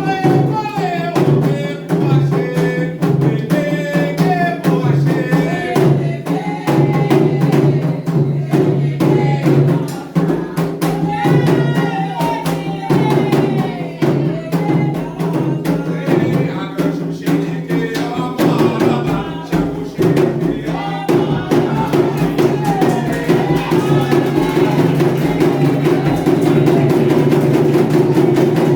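Candomblé drumming on atabaque hand drums with voices singing a chant over them: the toque played for the orixá Ayrá, a form of Xangô.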